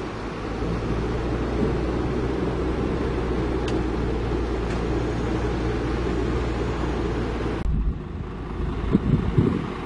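Heavy diesel engine running steadily. The sound changes abruptly about three-quarters of the way through, then a few low thumps follow.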